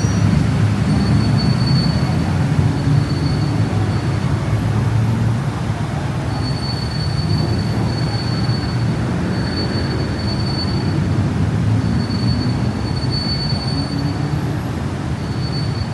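BTS Skytrain running on the elevated viaduct: a steady low rumble, with a thin high wheel squeal that comes and goes.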